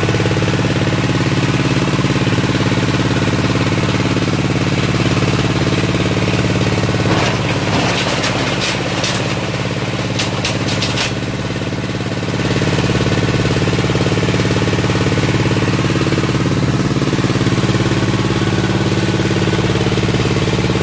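Waste-sorting machine running with a steady mechanical drone. From about seven to eleven seconds in, a series of sharp clattering knocks sounds while the drone drops slightly. The drone comes back to full level about twelve seconds in.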